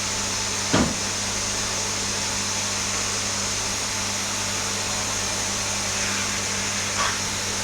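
Vacuum cleaner running steadily, a constant hum under a bright whooshing hiss, with two short knocks, about a second in and near the end.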